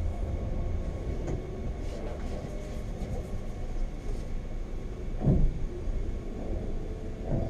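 Wengernalpbahn rack-railway train running: a steady low rumble with scattered light clicks, and a brief louder sound about five seconds in.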